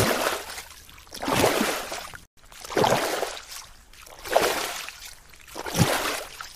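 Water surging and sloshing in repeated swells, about one every one and a half seconds, with a very brief dropout a little over two seconds in.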